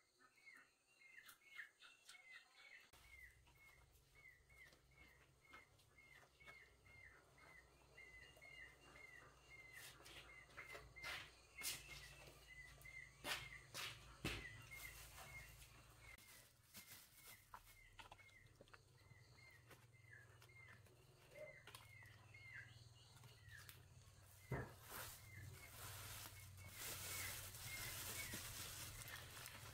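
Faint rural outdoor ambience: a bird repeats one short chirp about twice a second throughout. Scattered sharp clicks or knocks and a low rumble sit underneath, and a soft hiss grows near the end.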